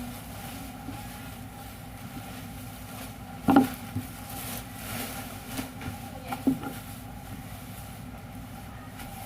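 Machine running with a steady hum, broken by a loud clunk about three and a half seconds in and lighter knocks about half a second and three seconds later, as it works through its cycle.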